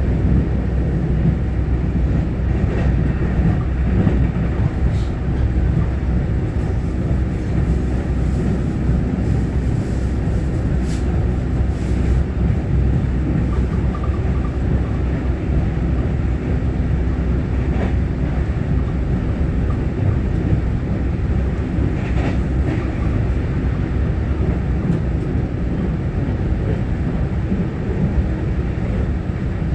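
Interior running noise of a Taiwan Railway EMU900-series electric multiple unit under way between stations: a steady, loud low rumble of wheels on rail, with a few faint ticks.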